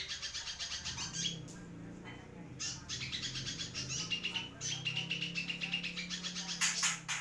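A kolibri merak singing: rapid, high trills of fast repeated notes, broken by a pause of about a second, with a louder burst of notes near the end.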